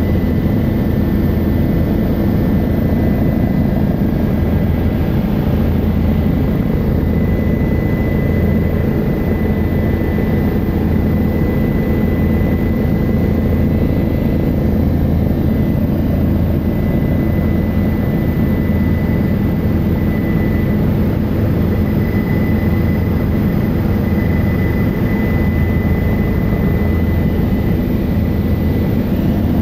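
Helicopter in flight heard from inside the cabin: a loud, steady drone of rotor and engine, with a thin high whine above it.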